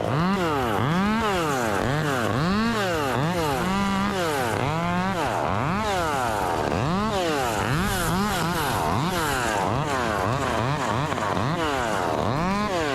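Two-stroke chainsaw engine revved up and down over and over, its pitch rising and falling well over a dozen times as the throttle is squeezed and released.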